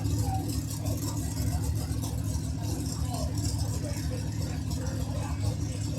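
Pulling tractor's engine idling steadily, with faint voices in the background.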